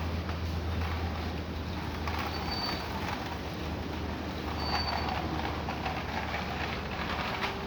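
Steady vehicle noise: a low rumble and hum that fades about three seconds in, with two short high squeaks in the middle.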